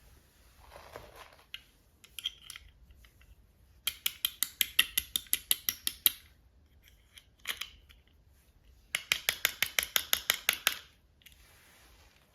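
Scissors snipping rapidly in two runs of about two seconds each, roughly eight snips a second, cutting through doll packaging. A soft rustle and a few single clicks come before and between the runs.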